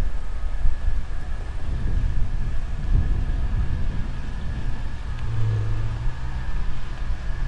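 Low, steady rumble of wind and road noise while riding an electric unicycle, with a faint steady high tone over it and a brief low hum about two-thirds of the way through.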